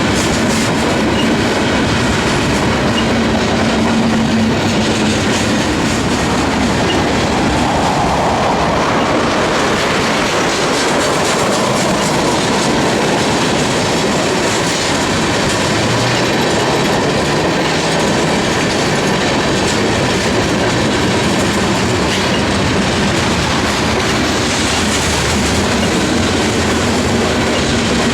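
CSX freight train cars rolling past close by, steady loud rumble with wheels clicking over the rail joints.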